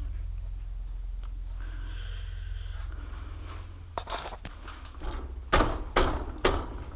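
Metal tools and bike parts being handled: a run of sharp knocks and clatters starting a little past halfway, the loudest three about half a second apart near the end, over a steady low rumble in the first half.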